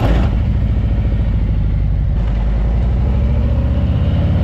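Harley-Davidson Road King Special's V-twin engine idling steadily with a fast, even pulse.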